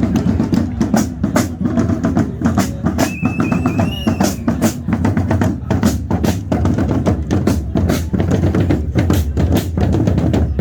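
Bass and snare drums beating in a steady, driving rhythm, as from a marching drum band in a bonfire procession.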